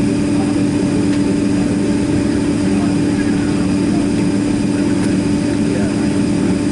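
Steady drone of a Boeing 767-300ER's running jet engines and air system heard inside the passenger cabin, a constant low hum with no change in power.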